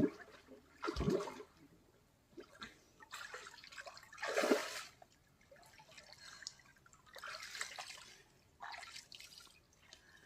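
Water splashing in short, separate bursts a second or two apart, the loudest about halfway through.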